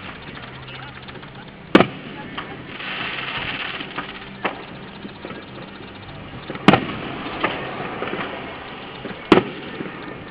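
Fireworks exploding: three loud, sharp bangs a few seconds apart, with fainter pops between them, over a steady low background hum.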